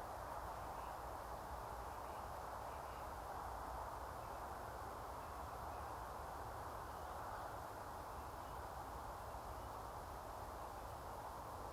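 Faint, steady outdoor hiss with a low rumble underneath, and a few faint, distant bird calls in the first few seconds.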